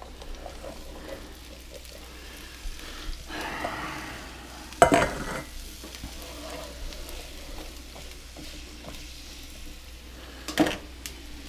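Food sizzling as it fries in a pan while being stirred, with two sharp knocks, one about five seconds in and one near the end.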